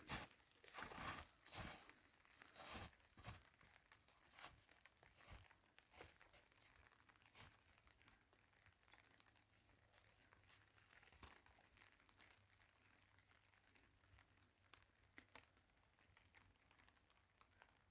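Faint crunching and crinkling, a cluster of quick crunches in the first three seconds that thins out into scattered light clicks close to silence.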